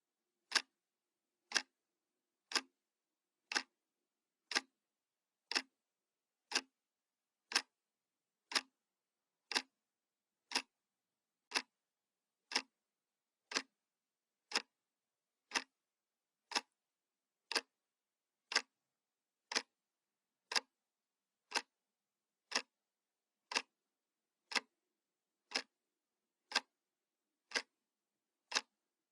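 Analog clock ticking, one sharp tick a second with silence between ticks.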